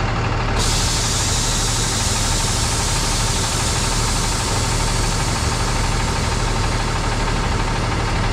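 Compressed air hissing steadily from the Hino truck's air-ride suspension airbags, starting sharply about half a second in, over the diesel engine idling.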